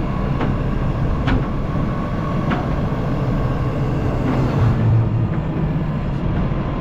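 Excavator diesel engine running steadily under a grapple saw's work, with three sharp metallic knocks in the first few seconds and a low swell in engine load about five seconds in as the grapple lifts a log.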